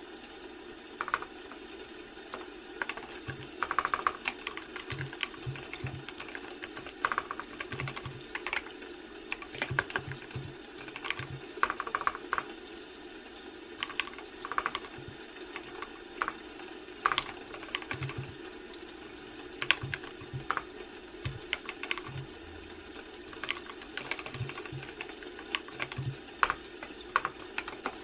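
Computer keyboard typing: irregular runs of keystrokes with short pauses between them, over a steady low background hum.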